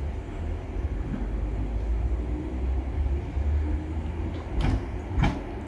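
British Rail Class 317 electric multiple unit pulling out and moving away: a steady low rumble of wheels and running gear. Two sharp clacks come near the end.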